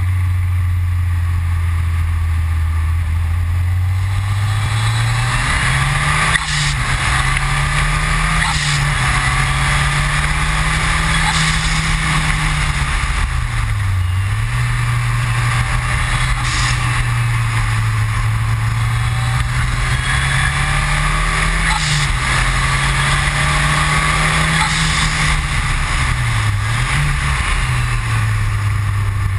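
Ford Escort RS Cosworth's turbocharged four-cylinder engine running hard at speed. Its note climbs over the first few seconds, then rises and falls with gear changes, dipping sharply twice, over steady wind and road noise.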